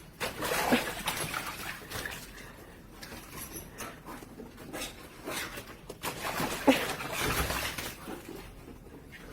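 A dog making noises, loudest about a second in and again about seven seconds in.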